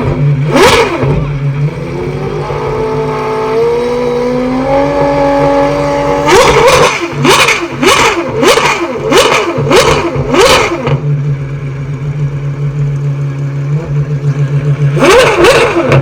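An engine idling with a steady hum, revved once with a slow rise in pitch, then blipped in a quick series of short, sharp revs, about one every half second or so. A few more sharp blips come near the end.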